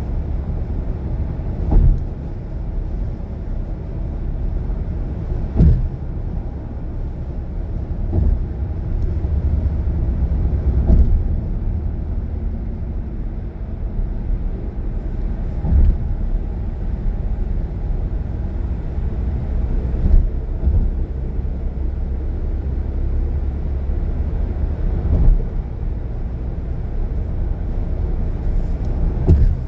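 Car driving on a highway: a steady low road and engine rumble, with a short thump every few seconds.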